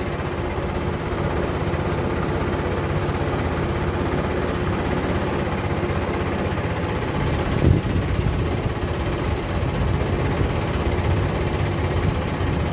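Motorboat engine running steadily, with a brief knock about eight seconds in.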